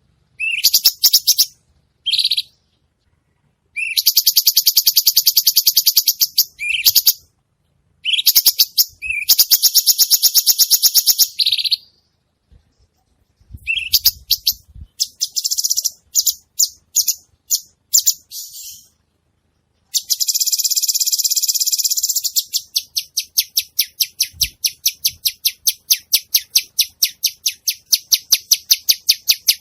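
Cucak cungkok songbird singing vigorously in bursts of rapid, high, repeated notes with short pauses between them, ending in a long fast run of notes in the last third.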